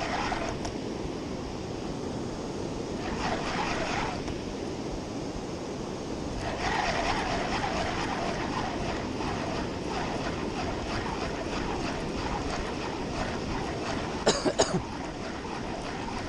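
Steady rush of wind and surf on an open beach, with a quick cluster of three or four sharp clicks about fourteen seconds in.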